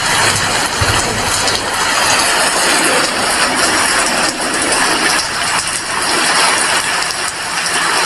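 Rain falling steadily, a dense even hiss with faint patter.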